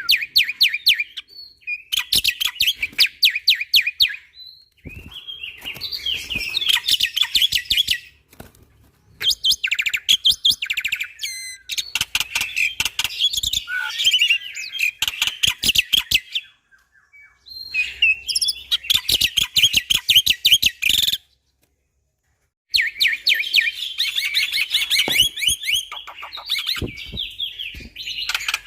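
Black-winged starling (jalak putih) singing: loud bursts of rapid, sharp chattering notes and whistles, broken by short pauses. The song cuts out completely for about a second and a half about three-quarters of the way through.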